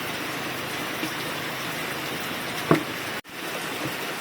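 Steady rain falling with an even hiss, and one short sharp knock a little past halfway through.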